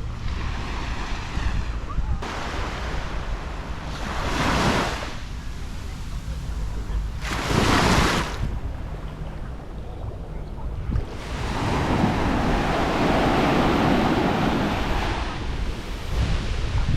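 Sea surf breaking and washing up on a beach in repeated swells, with a longer, fuller wash near the end, over wind buffeting the microphone.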